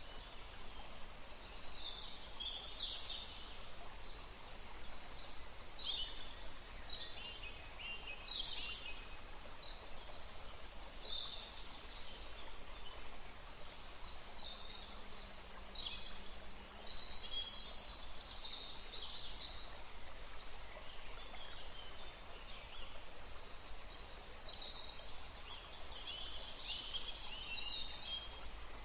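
Woodland birdsong: several small birds singing and calling in short chirps and trills throughout, over a steady background hiss of forest ambience.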